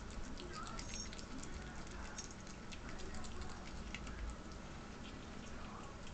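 Young ferret chewing a thawed day-old chick: a steady run of small irregular crunching and wet clicking sounds.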